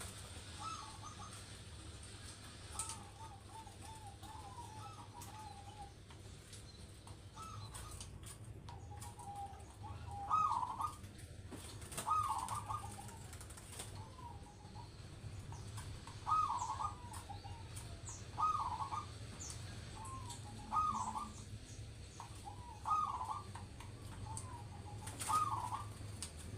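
Zebra dove (perkutut) cooing in repeated short rolling phrases. The phrases are soft at first and grow louder from about ten seconds in, with one loud phrase about every two seconds. A low steady hum runs underneath.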